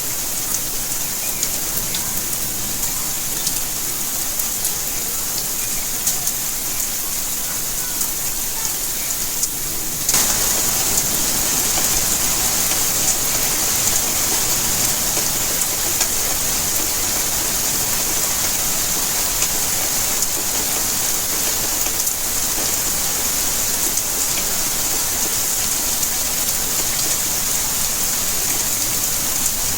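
Steady rainfall, a continuous hiss with faint patter of individual drops. About ten seconds in it abruptly becomes louder and fuller.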